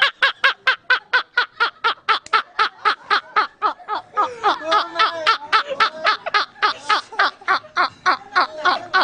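Person laughing hard and without a break, in rapid pulses of about four or five a second; a second laughing voice seems to join briefly around the middle.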